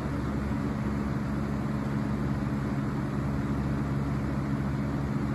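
Lasko 3733 box fan with a full-size Marco motor running steadily on medium speed: a low motor hum under the rush of the blades moving air.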